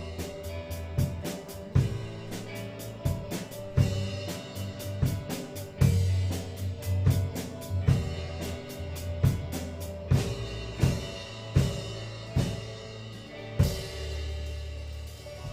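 A band playing with a drum kit, kick and snare hitting a regular beat over bass and other instruments, with busy cymbal ticks on top. Near the end the drums stop and a low chord is held.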